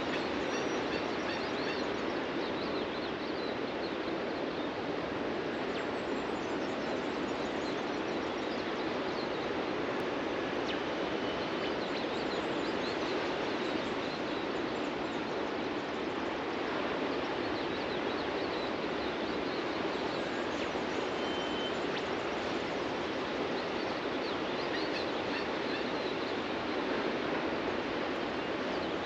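Ocean surf washing steadily on a beach, with small birds chirping faintly over it and a couple of short clear whistled notes.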